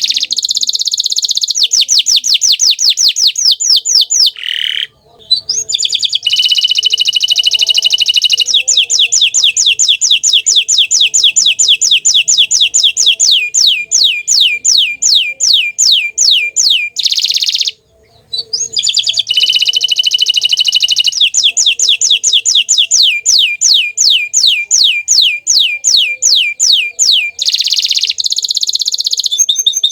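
Bottle-green canary singing loudly: long runs of quick falling notes, about five a second, alternate with fast rolling trills. There are two short breaks, about five seconds in and about eighteen seconds in.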